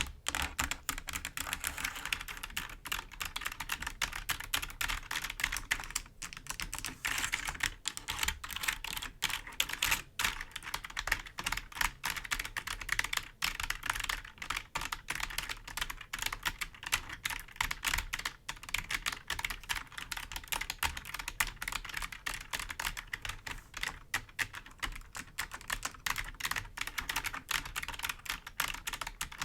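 Clicky computer keyboard being tapped and scratched with the fingers: a rapid, dense run of close-set clicks.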